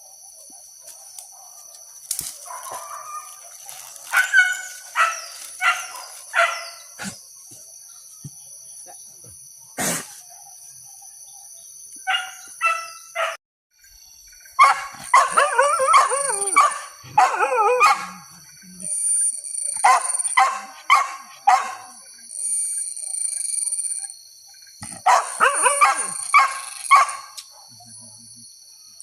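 Hunting dogs barking in quick runs of several barks, with a stretch of several dogs barking over one another about halfway through.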